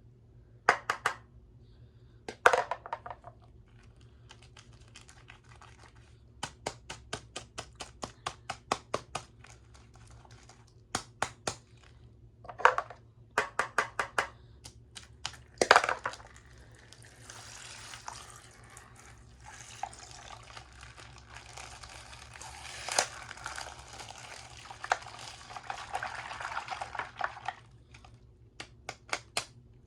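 Plastic bags of coloured liquid being handled and broken open: many sharp crinkles and clicks in the first half, then about ten seconds of liquid pouring and splashing out, then a few more crinkles near the end.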